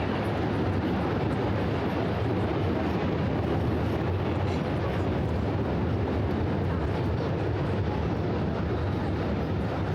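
Steady city street ambience: a constant low rumble of traffic with no distinct events.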